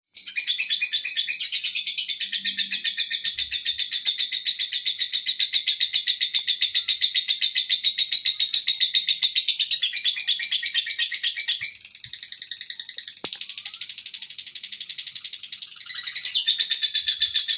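Lovebird singing a long ngekek: a continuous, rapid, high-pitched chattering trill of fast repeated notes, softening about twelve seconds in and growing louder again near the end.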